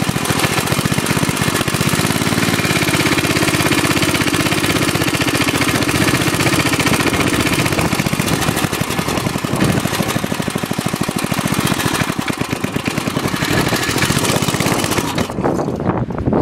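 Small engine of a homemade dirt bike running with rapid, even firing pulses, its pitch rising a little then settling back. Near the end the sound turns duller as the higher part drops away.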